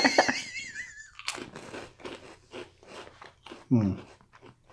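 Crisp, chocolate-filled pillow-shaped biscuits being bitten and chewed close to the microphone: a quick run of sharp crunches, several a second. It opens with a short, high, wavering giggle.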